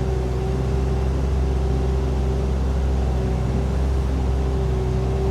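Mini excavator's Yanmar diesel engine running steadily, with a constant whine over the low engine hum.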